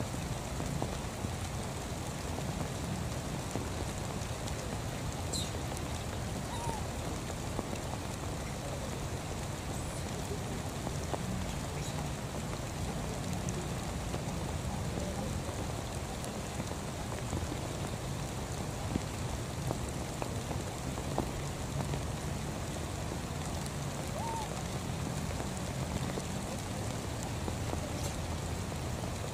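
Steady rain falling on shallow water and grass: a continuous, even hiss of drops.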